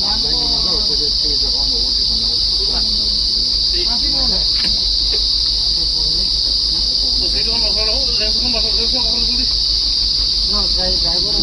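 Insects droning in a steady, unbroken high-pitched chorus, with faint voices talking beneath it.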